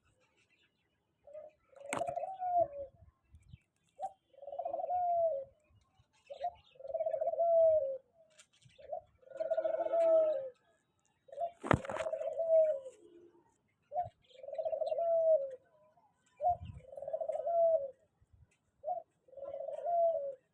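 A dove cooing over and over, each call a short note followed by a longer cooing phrase, repeating about every two to two and a half seconds. Two sharp knocks cut in, about two seconds in and near the middle.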